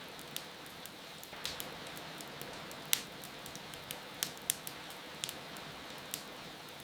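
Wood fire crackling with sharp, irregular pops, the loudest about three seconds in, over a steady hiss of falling rain.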